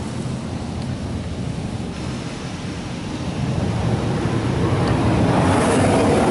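Oasis XP touchless car wash spray arm blasting water onto the car, heard from inside the cabin: a steady rushing hiss over a low hum, growing louder about four seconds in as the spray comes closer.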